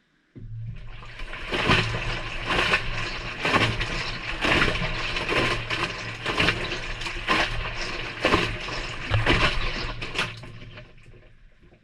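Maytag front-loading washing machine tumbling its drum on the delicate cycle, heard from inside the drum. The motor starts suddenly with a low hum, and the wet laundry and water slosh and splash about once a second as the drum turns. Near the end the drum slows and the sound fades away.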